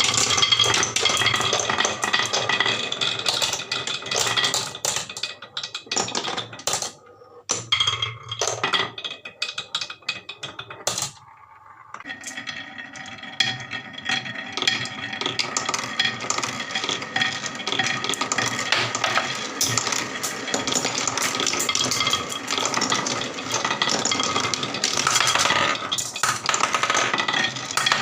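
Marbles rolling and clattering down a toy marble run, a dense stream of clicks and rattles that thins out briefly twice in the first half.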